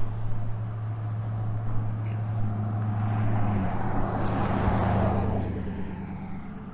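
Car engine running with a steady low hum, while a passing car's noise swells and fades about four to five seconds in.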